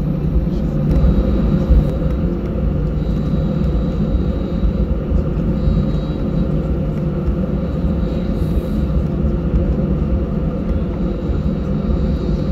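Airbus A319-114 cabin noise while taxiing: the jet engines running at low taxi power with a steady low rumble and hum, heard from a window seat inside the cabin.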